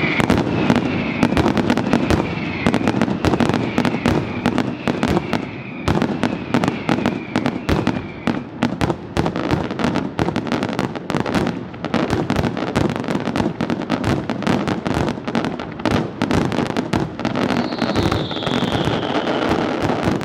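Professional fireworks display: a rapid, unbroken run of bangs and crackles from aerial shells bursting, with a high falling whistle near the end.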